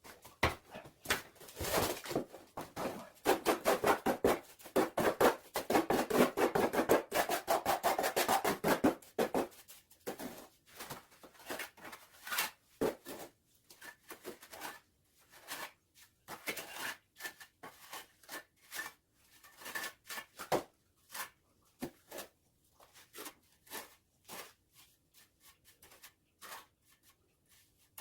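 A hand tool scraping over a rough surface in quick rubbing strokes, dense and loud through roughly the first ten seconds, then slower separate strokes.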